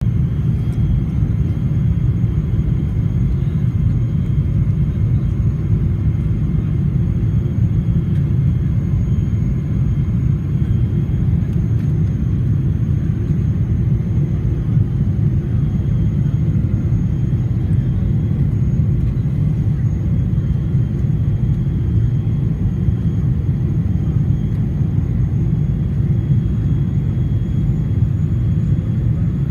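Steady cabin rumble of an Air Canada Boeing 777-300ER in flight, with its GE90 engines giving a faint, even high whine above the low roar of air and engines.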